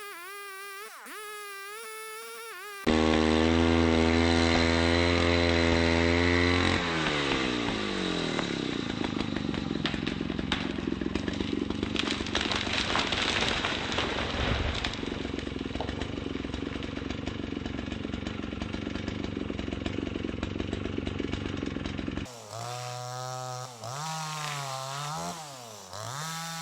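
Two-stroke chainsaw running at high revs; a few seconds in the pitch drops as the chain bites into a log, and it saws through the wood with a rough, rattling noise for about fifteen seconds. Near the end the saw runs on with its revs rising and falling.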